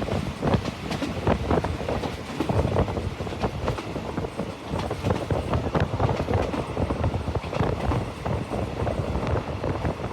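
A train running on the rails, its wheels clattering with a dense run of irregular knocks over a constant rumble.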